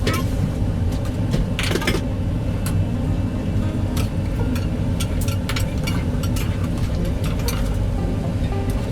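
Steady low mechanical hum, as from a food truck's running equipment, with scattered light clicks and clinks on top.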